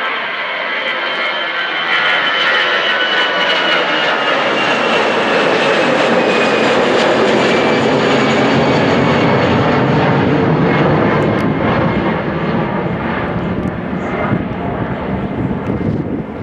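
Jet airliner passing close by, its engine noise swelling to a peak midway and then easing off, with a high whine that slides down in pitch as it goes past.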